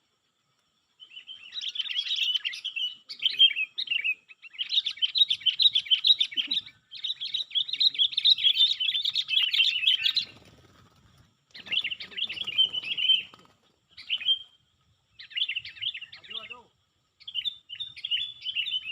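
A songbird twittering in long, rapid chattering phrases broken by short pauses.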